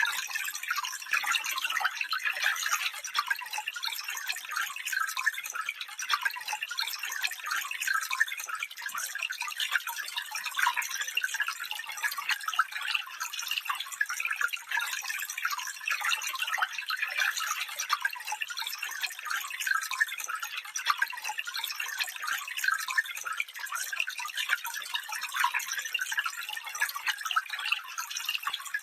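Small stream flowing over stones, a steady trickling and splashing of many little droplets, bright and without any low rumble.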